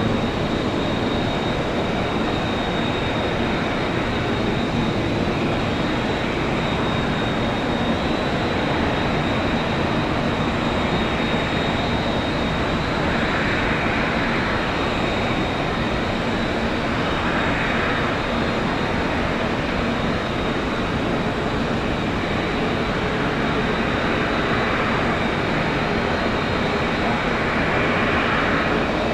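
Airliner jet engines running, a steady rush of noise with a thin high whine held throughout.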